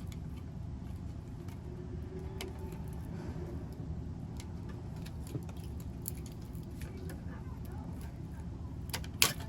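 Small clicks and handling noises from a piece being worked off a plastic headband by hand, with a sharper click near the end, over a steady low hum.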